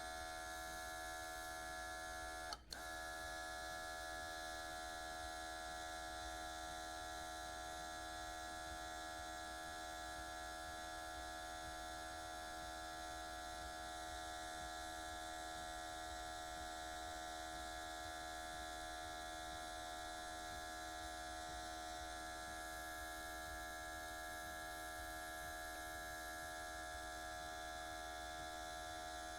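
Cordless airbrush's mini compressor motor running steadily, a constant electric whine with one short click about two and a half seconds in.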